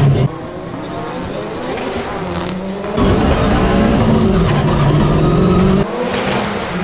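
Subaru Impreza WRX rally car's flat-four engine revving hard, its pitch rising and falling through the gears. The sound jumps abruptly in loudness about a third of a second in, at about three seconds and again near six seconds, as between different shots.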